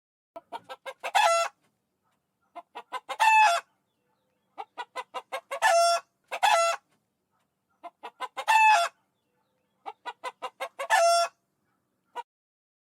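A chicken cackling: about five runs of short clucks, each ending in a longer, drawn-out squawk.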